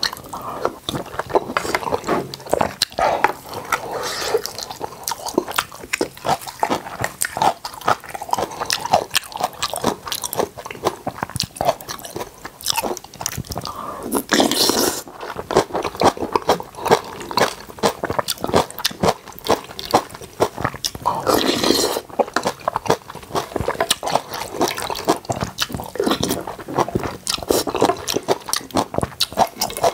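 Close-miked chewing and biting sounds of someone eating: a dense, irregular run of wet clicks and crunches, with two longer, louder noisy sounds about halfway and two-thirds through.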